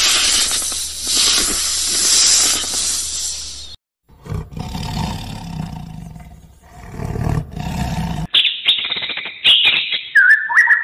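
A horned viper hissing steadily, cut off just under four seconds in. Then a cheetah's low rumbling growl in two bouts, followed from about eight seconds by a blue-and-yellow macaw's loud, harsh squawks.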